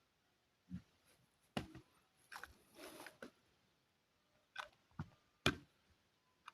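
Scattered handling sounds from a small plastic toy: about seven short, sharp clicks and taps at uneven intervals, with a brief rustle about three seconds in.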